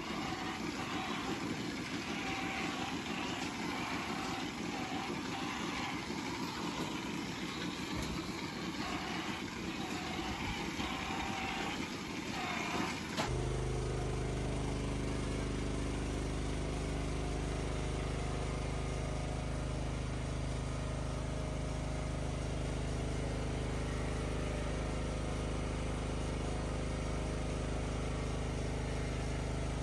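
Machinery running for about the first thirteen seconds, with a wavering mid-pitched tone over the noise; then a sudden change to a steady, deep engine hum.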